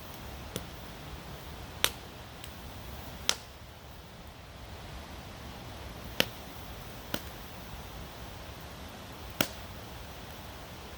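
Campfire crackling: sharp, irregular pops of burning wood, about seven of them a second or more apart, over a steady low rush.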